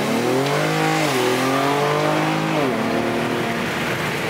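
Mercedes-AMG car accelerating hard away, its engine note climbing in pitch and dropping back with an upshift about a second in and another near three seconds.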